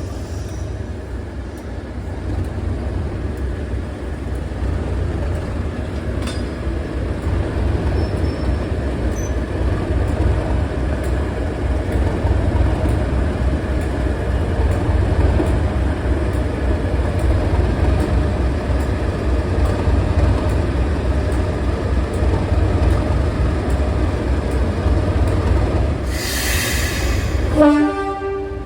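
Class 52 'Western' diesel-hydraulic locomotive's twin V12 diesel engines running steadily with a deep rumble, getting louder after a couple of seconds. Near the end there is a short shrill sound and a quick run of pitched tones.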